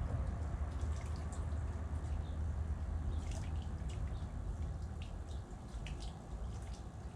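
Small birds giving short, high chirps at irregular intervals over a steady low rumble.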